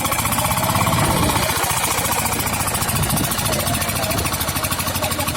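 VST Shakti mini tractor's diesel engine running steadily, its firing heard as a rapid, even pulsing, while the tractor struggles stuck in mud.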